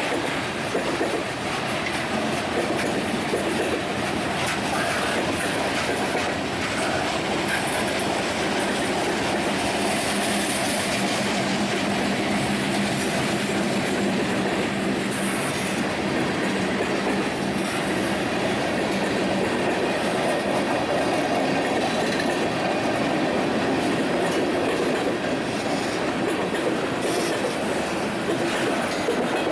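A train passing, its cars rolling steadily by on the rails.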